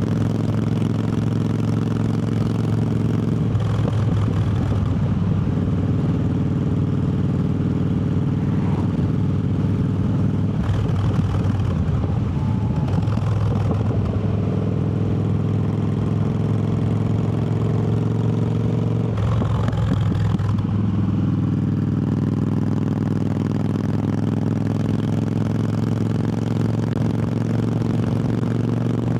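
Triumph Bobber's 1200 cc parallel-twin engine running while riding along. Its steady note breaks up and settles at a new pitch about 4 seconds in, again around 11 to 14 seconds, and again about 20 seconds in.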